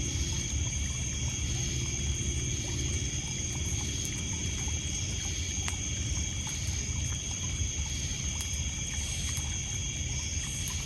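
Crickets and other insects trilling in a steady high chorus, with sparse crackles from a wood campfire over a low wash of water lapping on a pebble beach.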